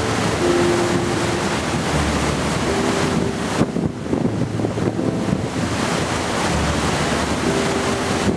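Wind buffeting the microphone over a steady rush of water, with a few faint held tones now and then.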